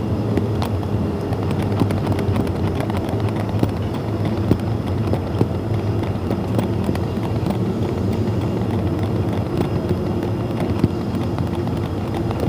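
Diesel-hauled express train running: a steady low drone with scattered clicks and rattles from the wheels on the track.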